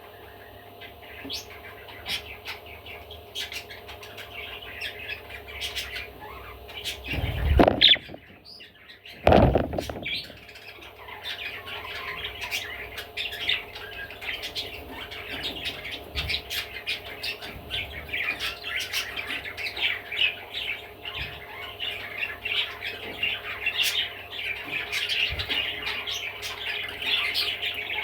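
Budgerigar chattering and warbling without a break, in a stream of quick, high chirps and squawks. Two loud thumps come at about a quarter and a third of the way in.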